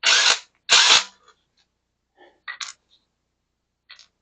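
Impact gun on the wheel's lug nuts, fired in two short bursts about half a second apart, then a few faint clicks. The gun's auto-stop makes it quit spinning, so it has to be re-triggered in bumps.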